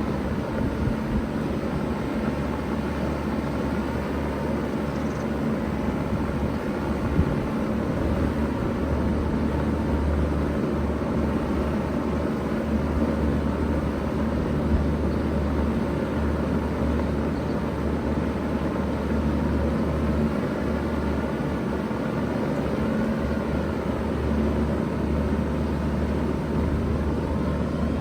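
A 2000 Bard 3-ton wall-hung heat pump running steadily in cooling mode: an even low hum with a rush of air over it.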